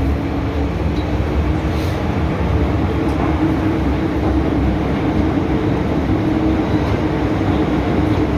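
MTR M-Train electric multiple unit running at steady speed: a continuous low rumble of wheels on rail with a steady motor hum.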